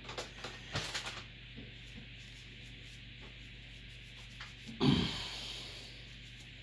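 Old thermal paste being wiped off a CPU heat spreader, with a few short rubbing strokes in the first second. About five seconds in comes a single dull thump, the loudest sound, which fades over about a second.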